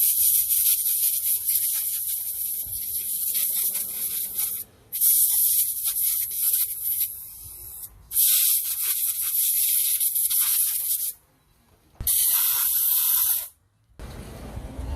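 Pressurised spray hissing in four separate bursts, each a few seconds long and starting and stopping abruptly. A lower rumbling sound takes over about a second before the end.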